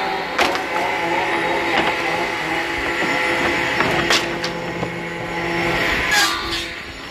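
Sawmill woodworking machinery running with a steady motor hum and whine, broken by several sharp knocks, about four in the space of six seconds.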